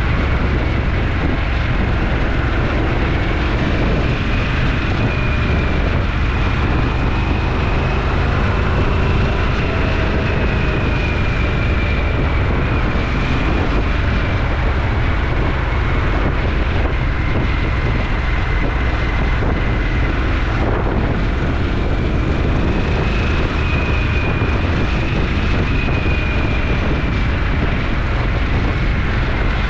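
Motorcycle riding at a steady speed: the engine running under heavy wind rush on the camera's microphone, with faint whines that slowly rise and fall in pitch.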